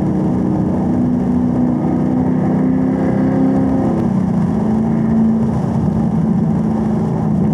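Camaro engine pulling steadily at around 3,500 rpm in third gear, heard from inside the cabin over tyre and road noise. A little past halfway the engine note drops as the car shifts up into fourth gear.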